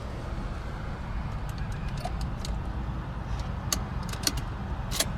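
The Citroën C-Crosser's engine idling, heard inside the cabin as a steady low hum, with a scatter of light clicks and taps that bunch up toward the end.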